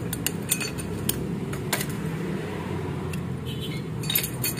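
Metal Vespa clutch parts (plates and gear) clinking and tapping as they are handled and pulled apart, in a string of separate light knocks over a steady low hum.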